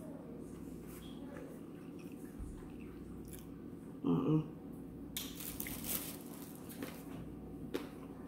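Close-miked chewing and wet mouth sounds of a person eating a spoonful of red beans and rice, with scattered small smacks and clicks. A short hum of the voice comes about four seconds in.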